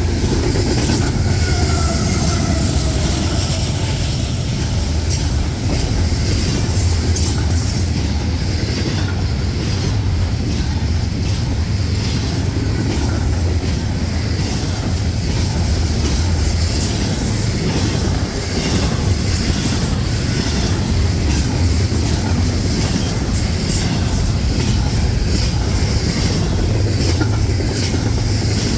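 Freight train rolling past close by: a steady low rumble of steel wheels on rail, with many quick clicks from the wheels crossing rail joints and a faint falling wheel squeal in the first few seconds.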